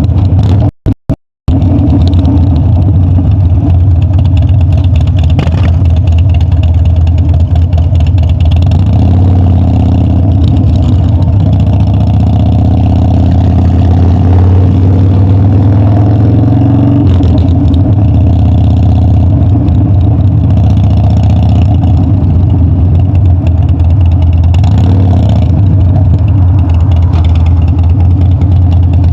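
Harley-Davidson Dyna V-twin motorcycle engine running loud under way, its pitch climbing gradually for several seconds midway and then dropping. The sound briefly cuts out about a second in.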